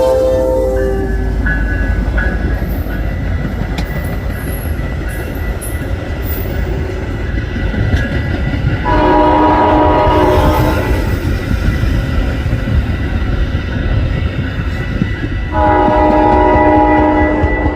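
Locomotive air horn sounding a multi-note chord in long blasts: one ending just after the start, another about nine seconds in lasting about two seconds, and a third starting near the end, over the steady rumble of a passing train.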